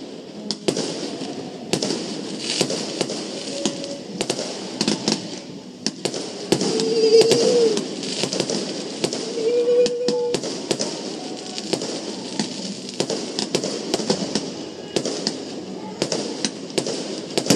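Aerial fireworks bursting: a run of bangs and crackling sparks, loudest about seven seconds in. Two brief steady tones sound around the middle.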